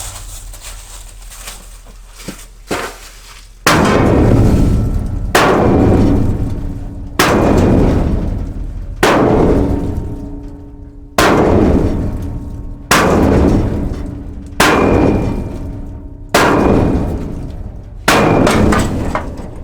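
Heavy hammer blows on steel, about nine strikes roughly every two seconds, each ringing out after the hit, driving the straw shredder off a Massey Ferguson 550 combine. The first few seconds hold only a couple of light knocks.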